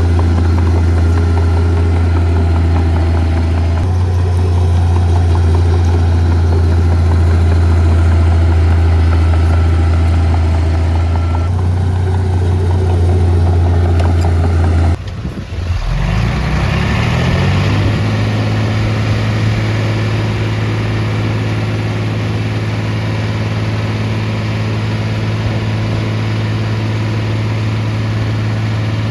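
Heavy diesel earth-moving machinery running steadily. About halfway the sound changes abruptly: an engine note rises in pitch and settles into a steady, slightly higher drone.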